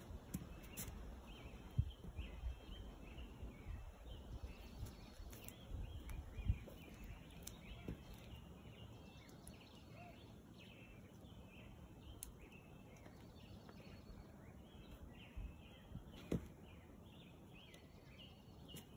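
Small birds chirping over and over, with a low outdoor rumble and a few sharp knocks.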